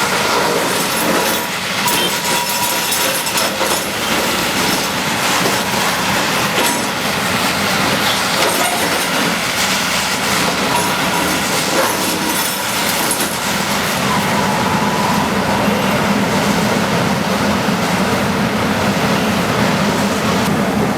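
Bulldozer at work: its diesel engine running under load, with steady metallic clanking and grinding from its steel tracks and blade. A steadier engine note comes in about two-thirds of the way through.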